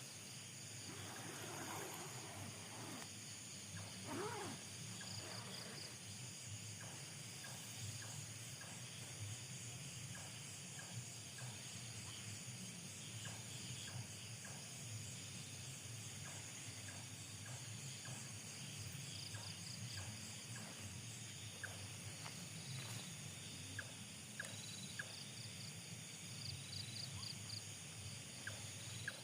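Faint night-time chorus of insects: steady high-pitched shrilling with repeated pulsing trills, plus scattered small clicks and a short rising-and-falling call a few seconds in.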